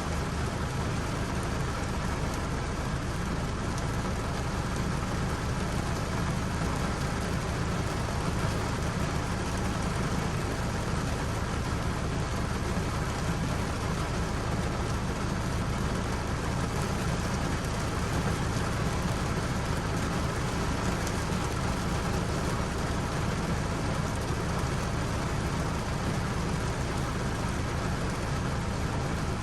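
Steady, unbroken rain, falling evenly with a low rumble beneath.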